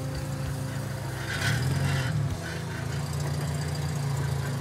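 Lada Niva's engine running at low revs as the SUV creeps over a bridge of loose logs, briefly louder with a slight rise in pitch about a second and a half in.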